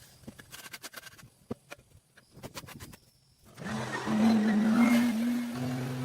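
An engine starts about three and a half seconds in and then runs at a steady speed, after a few faint clicks and taps.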